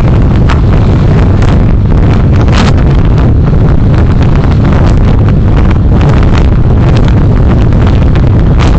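Car being driven, heard through a dashcam microphone: a loud, steady low rumble of road and engine noise with scattered short ticks and rattles.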